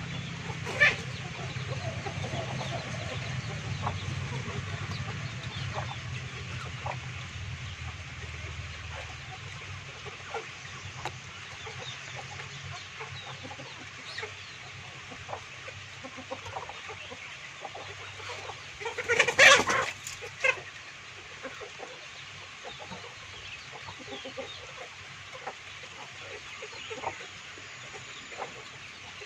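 Domestic chickens clucking, with short calls scattered throughout and one loud call of about a second and a half about two-thirds of the way in. A low hum underneath fades out about a third of the way in.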